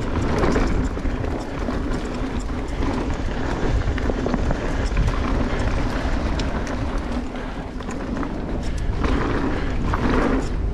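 Mountain bike rolling fast along a dirt trail: steady tyre noise and wind buffeting the camera's microphone, with scattered light clicks and rattles from the bike.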